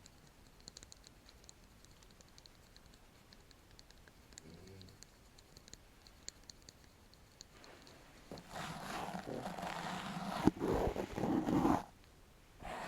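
Paint brush bristles brushing and tapping on a microphone: faint light ticks at first, then about two-thirds in a run of loud scratchy brushing with a couple of sharp knocks, which stops just before the end.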